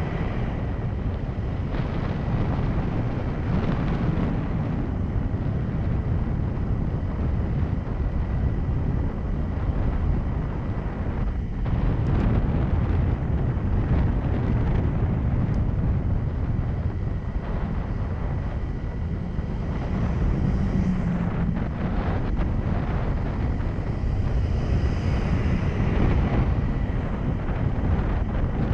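Honda 125 cc motorcycle running while riding, its engine mixed with steady wind noise on the microphone.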